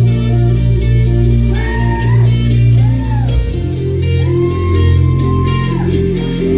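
Live rock band playing loudly: electric guitar over heavy, sustained bass, with lead notes gliding up and down in pitch.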